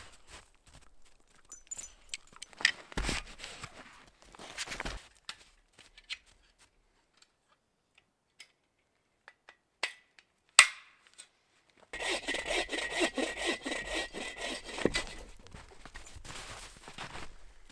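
Hand saw cutting through a dead tree in rapid, rhythmic back-and-forth strokes, starting loud about twelve seconds in and easing off after a few seconds. Before that there are scattered rustles and knocks, a quiet stretch, and one sharp click.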